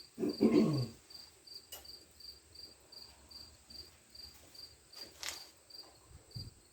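A cricket chirping steadily, about three high chirps a second. Near the start there is a short grunt-like vocal sound, and two light sharp taps come later.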